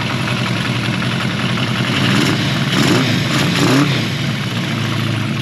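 Honda CB400F's inline-four engine running on K&N pod filters, with intake noise audible. It is blipped a few times, rising and falling in pitch, between about two and four seconds in, then settles back to a steady idle.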